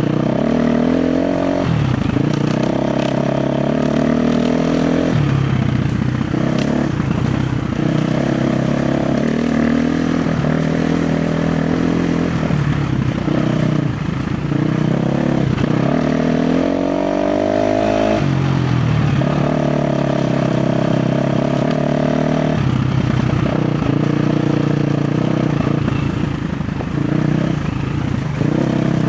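KTM 350 XC-F's single-cylinder four-stroke dirt bike engine under constant throttle changes, revving up and dropping back every few seconds, with one long rising rev about halfway through.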